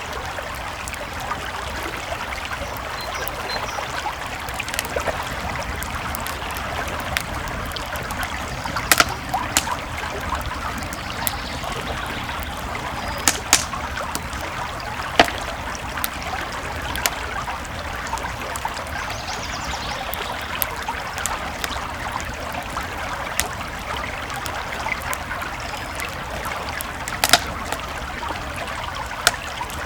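Creek water flowing steadily, with a wood campfire crackling over it; a few sharp pops stand out, about 9, 13 and 15 seconds in and again near the end.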